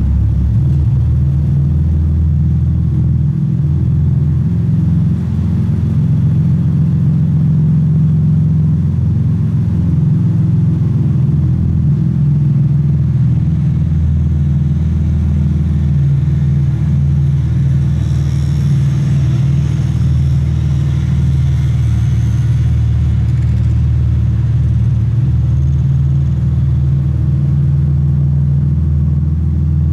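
Toyota Supra MK4's naturally aspirated 2JZ-GE straight-six idling steadily, a low even exhaust rumble.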